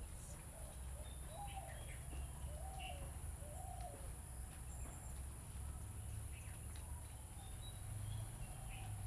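Faint bird calls: a few short soft cooing notes, each rising and falling, about a second apart, with scattered small chirps, over a steady low hum.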